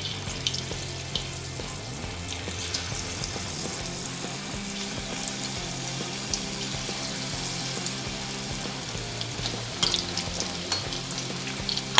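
Chicken pieces coated in cornflour-and-maida batter sizzle steadily as they deep-fry in hot oil in a kadhai, with pieces being dropped in one by one. A few light clicks come through, one near the end as a slotted spoon moves the pieces.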